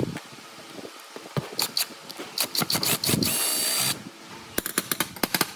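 Power drill running in one short burst of just under a second with a high motor whine, among sharp clicks and knocks of metal parts being handled.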